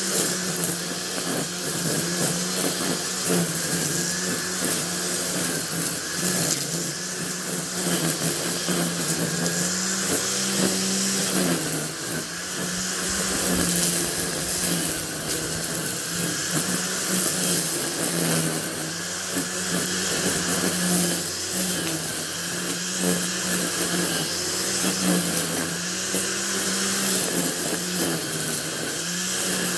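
A small engine running steadily, its pitch dipping and rising every few seconds as the load changes.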